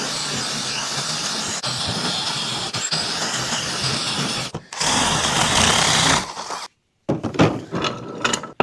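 Power drill with a 7/8-inch bit boring down into a block of wood: a steady grinding whir that breaks off briefly about four and a half seconds in, comes back louder, and stops about six and a half seconds in. A few short knocks follow near the end.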